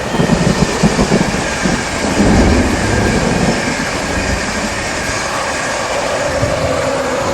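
A train running along the track: a loud, steady rumble with irregular knocks from the wheels and carriages, heaviest in the first few seconds.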